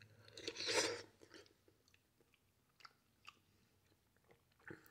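A person chewing a mouthful of soft canned pasta, most audible in the first second, followed by a few light clicks of a plastic spoon against the metal can.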